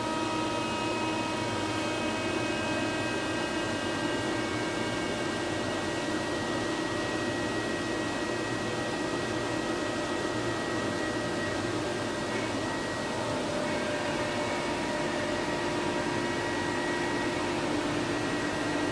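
Pneumatic air motor of a portable flange-facing machine running steadily: a constant hiss with several steady tones held over it, easing slightly about two-thirds of the way through.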